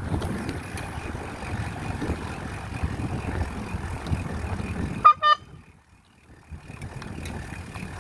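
Wind buffeting the microphone on a moving bike. About five seconds in come two short high beeps, then the sound drops out almost completely for about a second before the rumble returns.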